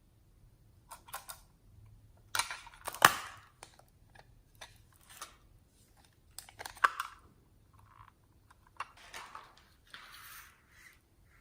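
Slime being worked with makeup mixed in: irregular short crackles, clicks and scrapes, loudest about three seconds in and again around seven seconds, with softer scraping near the end.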